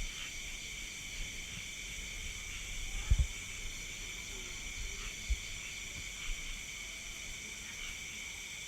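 Night insect chorus: a steady high trilling from many insects at several pitches. A few low thumps cut in, the loudest about three seconds in and another about five seconds in.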